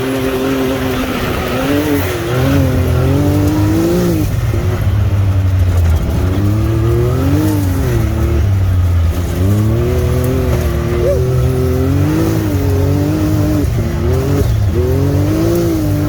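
Side-by-side UTV engine revving hard under acceleration up a trail in four-wheel-drive high, its pitch swelling up and dropping back again and again as the throttle and terrain change.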